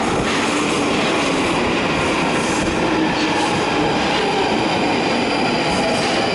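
London Underground train running, a loud steady rumble with faint squealing tones from the wheels on the rails.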